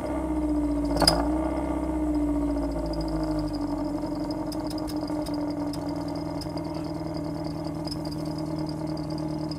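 Engine of a 1999 Timor DOHC car idling with an exhaust turbo whistle fitted, giving a steady droning tone over a low rumble. A single sharp tap about a second in, and the tone dips slightly in pitch just after.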